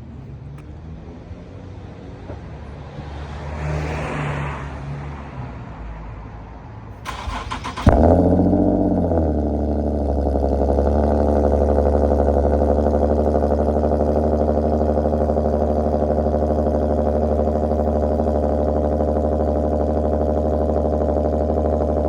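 Cold start of a car with a Motordyne catback exhaust, high-flow cats and resonated muffler delete: the starter cranks about seven seconds in, the engine catches with a loud burst and flares up, then settles into a steady idle.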